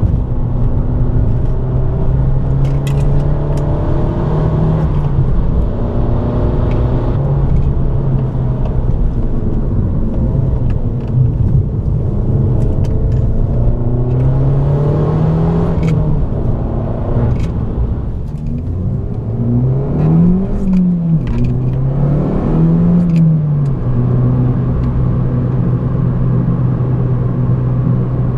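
Abarth 595 Competizione's turbocharged 1.4-litre four-cylinder running steadily, its revs rising and falling back a few times: once about four seconds in, again around fifteen seconds, and twice in quick succession around twenty and twenty-two seconds.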